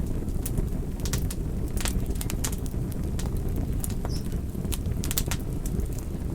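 Wood fire crackling: frequent irregular sharp snaps and pops over a steady low rumble of burning.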